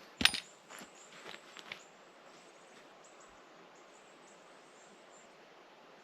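A catapult shot: a sharp snap about a quarter of a second in, then a few lighter clicks over the next second and a half. After that, quiet forest air with faint high bird chirps.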